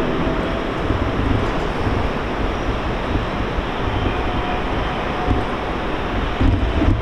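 JR electric commuter train easing to a stop and standing at the platform, a steady noise of its running equipment and the station around it.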